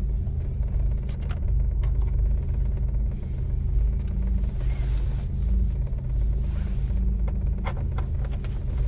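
Steady low rumble with a few sharp clicks scattered through it.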